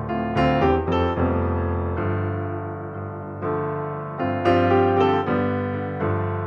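Background piano music: calm notes struck a few at a time, each ringing and slowly fading.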